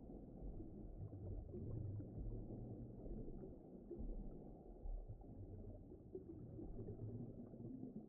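Low, muffled underwater ambience: a faint, steady rumbling wash with no distinct calls or events.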